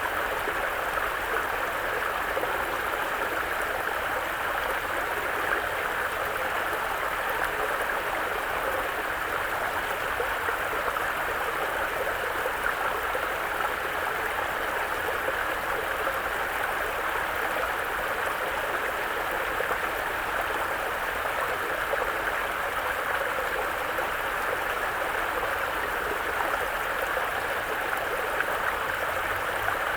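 A mountain brook running over stones: a steady babble of flowing water.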